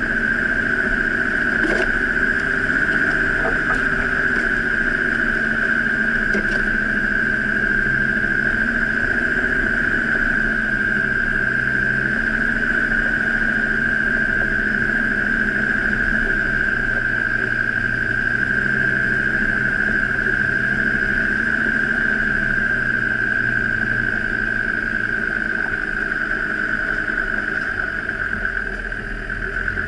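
Off-road 4x4's engine running at low speed as the vehicle crawls along a rough track, with a steady high whine over it. A few short knocks come in the first several seconds.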